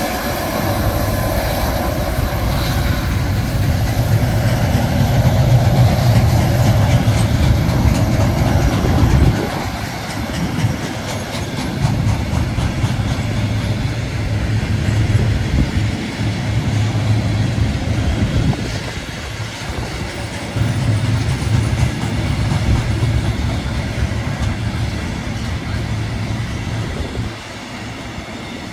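Freight train hauled by a diesel locomotive rolling past: the wagons' wheels rumble and clatter along the rails in long swells, dropping down near the end as the train moves off.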